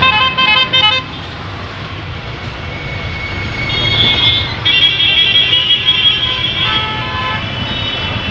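Vehicle horns sounding over steady road noise: a quick string of short toots at the start, then longer held horn blasts from about four seconds in.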